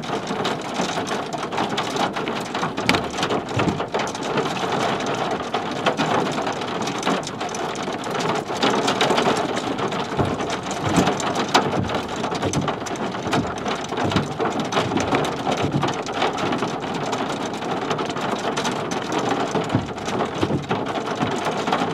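Steady rain falling, with many drops striking close by as a dense crackle of sharp ticks.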